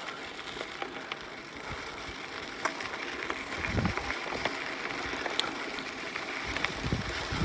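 Mountain bike rolling over a dirt fire road: a steady noise of tyres on dirt with scattered small clicks and rattles from the bike. Wind buffets the microphone with low rumbling gusts about four seconds in and again near the end.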